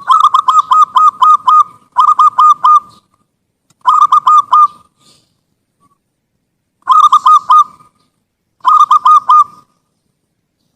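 Zebra dove (perkutut) singing: five phrases of quick, rhythmic cooing notes, the first about twice as long as the others, with short silent pauses between them.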